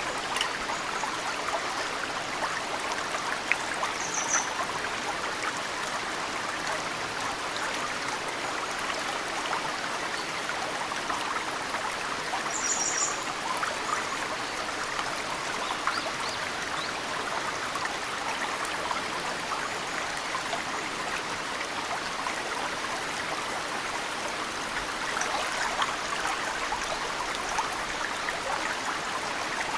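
Mountain stream flowing steadily, with snowmelt dripping into it. A bird gives short high chirps twice, about 4 seconds in and again about 13 seconds in.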